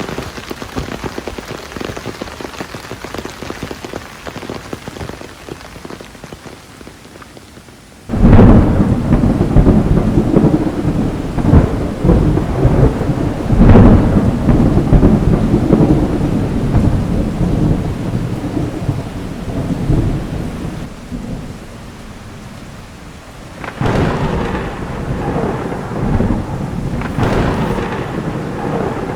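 Heavy rain falling steadily, then a sudden crack of thunder about eight seconds in that rolls on in long rumbles and slowly dies away; a second roll of thunder starts near the end.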